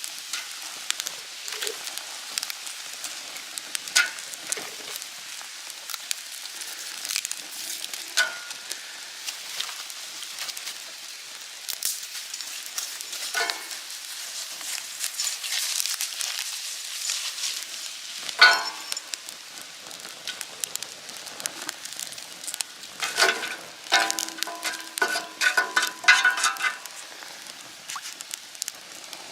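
Food sizzling in a pan over a wood fire, with scattered crackles and a run of metal clinks from a utensil against the pan near the end.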